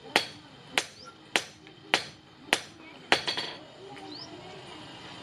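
Blacksmith's hammer striking steel on an anvil while forging a hasua blade: six sharp, evenly spaced blows about 0.6 s apart, each with a short metallic ring. The hammering stops a little past halfway.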